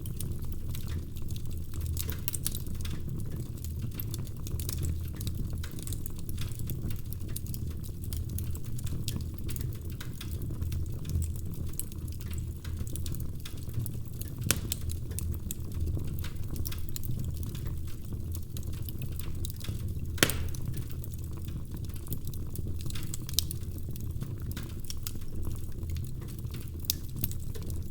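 Wood fire burning in a fireplace: a steady low rumble with constant small crackles and snaps of burning logs. A sharper, louder pop comes about twenty seconds in, with a couple of smaller ones around it.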